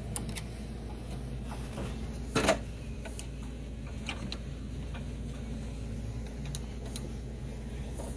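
Scattered light clicks and taps of hand tools and small parts during carburetor work on a snowblower engine, with one louder knock about two and a half seconds in, over a steady low hum.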